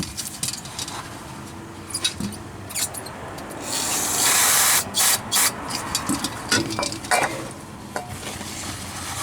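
Aerosol brake cleaner spraying: one hiss of about a second roughly three and a half seconds in, then a few short squirts, among scuffing and small clicks of cleaning work on grimy grease fittings.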